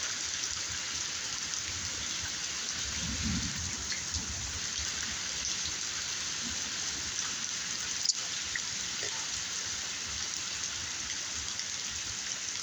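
Steady hiss of rain falling, with a low rumble about three seconds in and a single sharp tap about eight seconds in.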